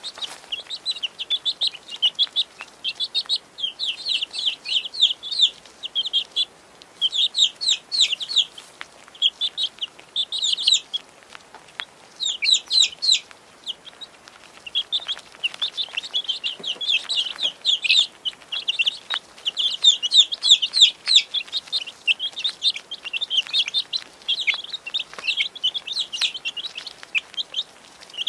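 A group of baby chicks peeping: many short, high-pitched cheeps overlapping almost constantly, with a few brief lulls.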